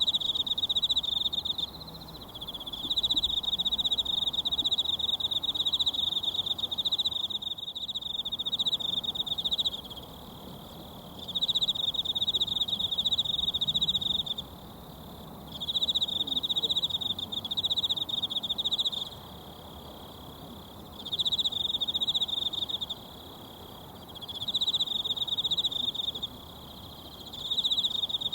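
An insect trills in repeated bouts of a few seconds, separated by short pauses, over the faint steady rush of a mountain stream.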